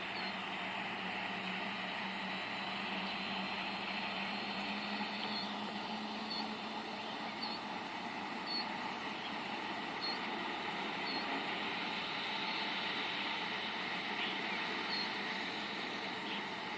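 Helicopter heard from a distance as a steady drone with a low hum, without a clear beat of the blades. A short high chirp repeats about once a second over it.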